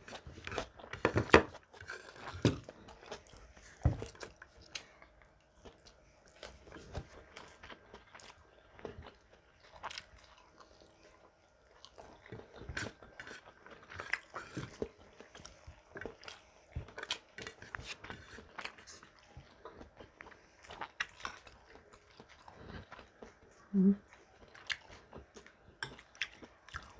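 Close-up chewing and crunching of food, a run of irregular crisp bites and mouth clicks, loudest in the first few seconds. The food is crunchy green mango salad with bagoong.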